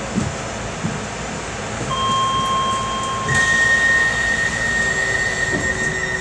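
Docklands Light Railway train standing at a station, its carriage equipment humming steadily, with a couple of soft thumps near the start. About two seconds in, a steady high electronic tone begins. A second, louder one joins it a second later and holds on.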